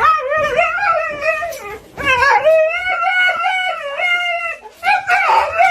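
Dog howling in three long wavering calls, the second the longest, with the third starting near the end.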